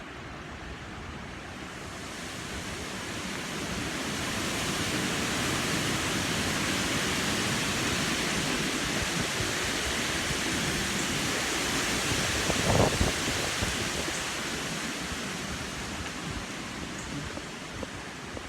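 Strong wind gusting, a steady rushing noise that builds over the first few seconds, holds, then eases off, with one brief harder blast about two-thirds of the way through.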